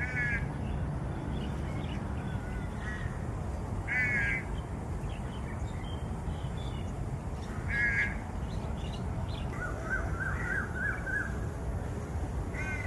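Birds calling outdoors: a short, harsh, cawing call repeats about every four seconds, and another bird gives a quick run of repeated notes around ten seconds in. A steady low background rumble runs underneath.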